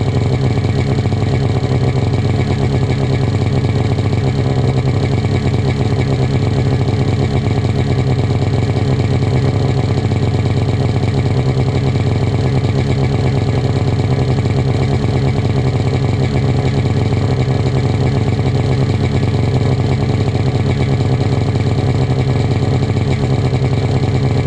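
2006 Polaris RMK 700 snowmobile's two-stroke twin engine idling steadily through an aftermarket exhaust, with no revving.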